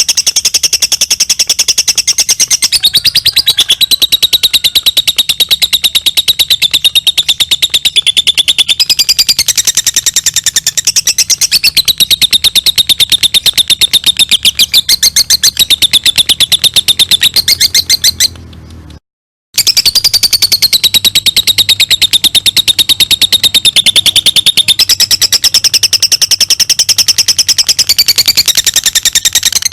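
Lovebird giving its long 'ngekek' song: a loud, unbroken run of rapid, shrill chattering chirps. There is a brief break about two-thirds of the way through, after which the song runs on.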